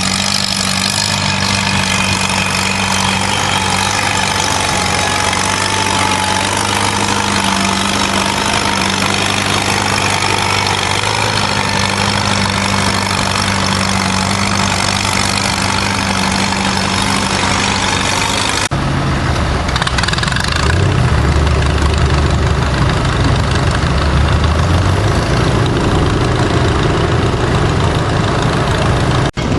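Antique tractor engine running with a steady drone. After a sudden cut about two-thirds of the way in, a louder, deeper engine sound swells and eases off.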